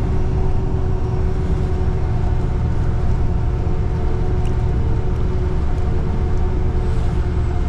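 Steady low rumble of a city bus engine and running gear, with a constant hum of several steady tones over it.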